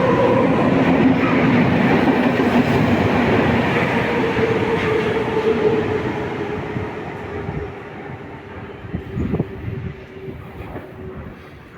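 Electric passenger train running and slowing down: its motor whine drops in pitch and the running noise fades as it slows.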